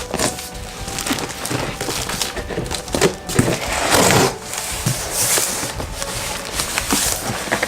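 Packaging being handled: cardboard and styrofoam rustling and scraping with irregular knocks, and a louder scraping rush about three to four seconds in.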